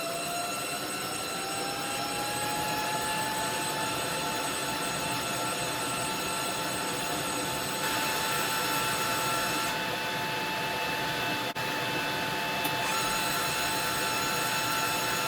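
MIG welder arc running, a steady hiss and crackle, with a whine that rises in pitch over the first two seconds and then holds steady. The arc breaks off briefly about three-quarters of the way through.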